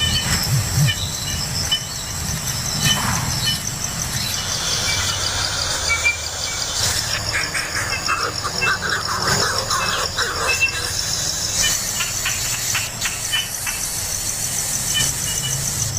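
Outdoor ambience: a steady, rapidly pulsing insect trill with short bird chirps scattered through it, and a patch of rustling in the middle.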